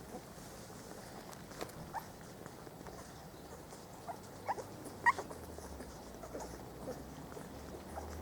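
Four-week-old Spanish Water Dog puppies squeaking and whimpering: a few short, high squeaks rising in pitch, the loudest about five seconds in.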